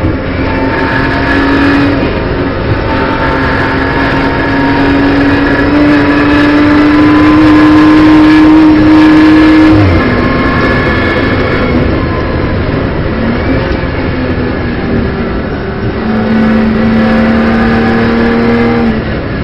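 BMW M240i Racing Cup's turbocharged straight-six heard from inside the cockpit under load, its pitch slowly rising for about eight seconds, then dropping abruptly about ten seconds in. It pulls again at a steadier, lower pitch, with another drop near the end.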